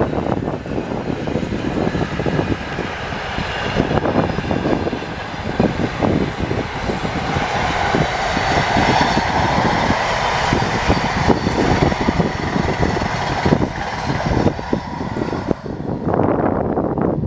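A train passing at speed: a steady loud rushing rumble with rapid clattering and a faint high whine. The high end falls away near the end as it recedes.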